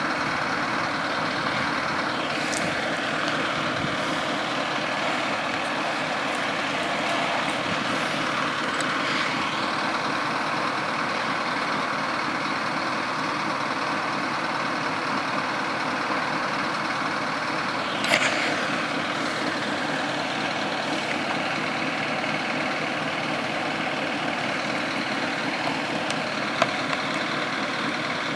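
Heavy trucks and road traffic running steadily, with one brief sharp hiss or click about eighteen seconds in.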